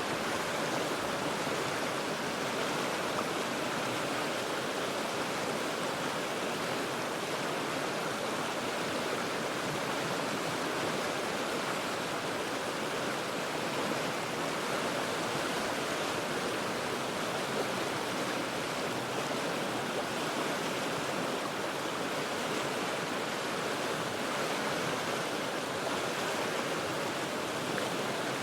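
River rapids rushing over rocks, heard from high above the water as a steady, even roar.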